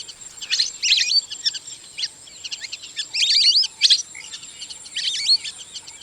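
Lesser whistling ducks calling: bursts of high, wheezy, wavering two-note whistles, about a second in, around three to four seconds in and again just after five seconds. A faint steady high tone runs behind them.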